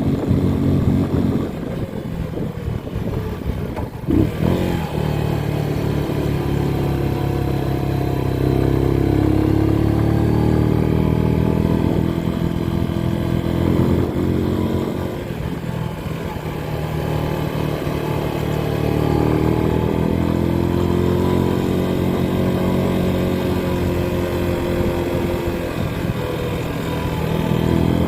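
Motorcycle engine running under way, its pitch rising and falling with throttle and gear changes, with a single sharp knock about four seconds in.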